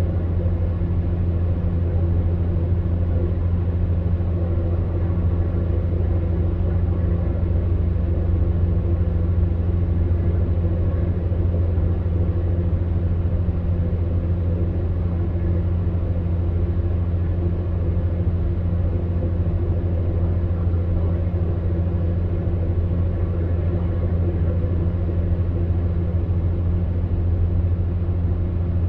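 Electric fan heater running steadily: a low, even hum with a soft rush of air from its fan.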